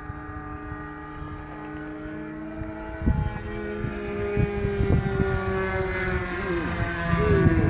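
Engine of a radio-controlled Piper Pawnee model airplane in flight, droning steadily and growing louder as it comes closer. Its pitch dips near the end as it passes by. Wind buffets the microphone from about three seconds in.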